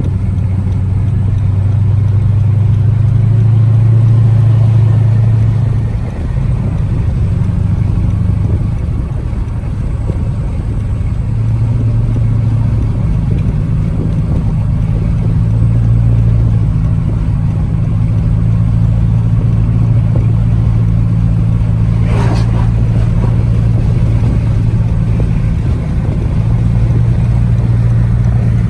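Car engine and road noise heard inside the cabin while driving: a loud, steady low drone, with a single short knock or click about three quarters of the way through.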